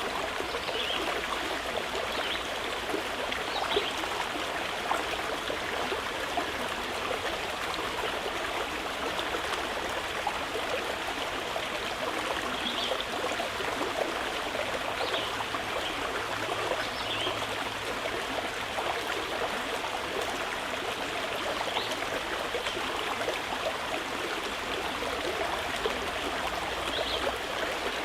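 Mountain river flowing steadily, a constant even rush of water, with a few short, faint high chirps scattered through, from birds.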